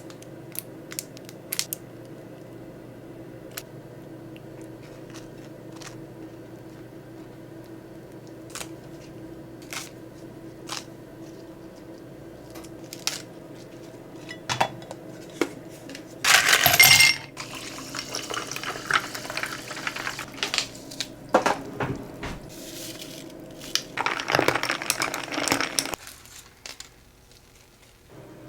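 Kitchen handling sounds: scattered light clicks and clinks of dishes and utensils over a steady low hum, with a few louder noisy stretches lasting a second or two in the second half.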